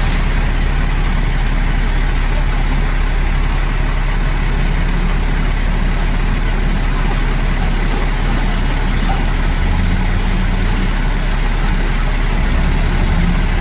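Heavy diesel truck engine idling steadily, a low even drone.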